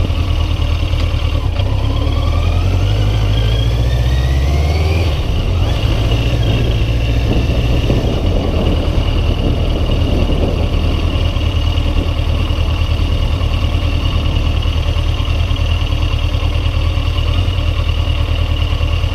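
Yamaha XJ900 inline-four motorcycle engine rising in pitch as it accelerates over the first five seconds, then running at a steady cruise, under heavy wind buffeting on the microphone.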